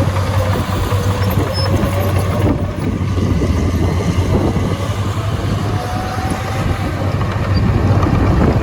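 Heavy diesel engine of earthmoving machinery running steadily, with a rattling, clattering texture and a thin whine that drifts in pitch and climbs in the second half.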